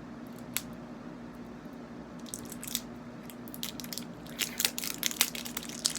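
Plastic slime containers being handled and opened: irregular crackling and sharp clicks that start about two seconds in and grow denser towards the end, over a steady low hum.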